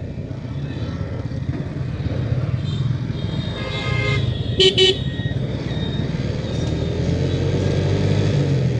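A TVS Metro Plus 110cc motorcycle running on the road with a steady engine and road rumble. A vehicle horn gives short toots about four seconds in, the second one louder.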